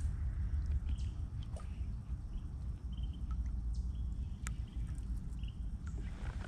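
Short, high bird chirps come now and then over a low, steady rumble, with a few light clicks.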